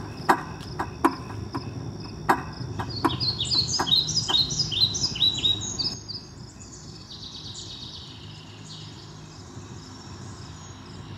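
A bird singing a quick run of repeated, falling high chirps for a few seconds, over scattered sharp knocks. After it, a steady high insect drone carries on until the sound cuts off abruptly.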